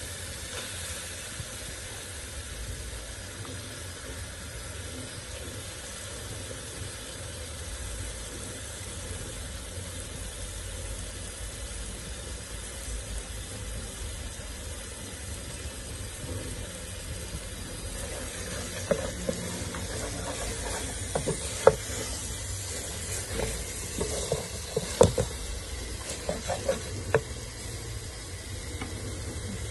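Silver fish (mukene) and chopped peppers frying in an aluminium pot with a steady sizzle. About two-thirds of the way through, a wooden spoon starts stirring, knocking and scraping against the pot several times.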